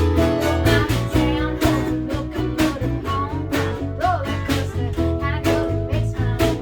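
A band playing a country song with acoustic guitar over a steady beat, with a low bass part coming in about a second in.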